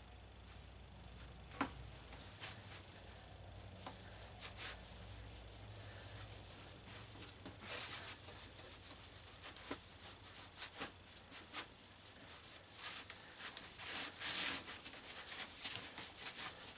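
Beeswax being buffed into a steel handsaw blade by hand: irregular rubbing strokes with a few light clicks.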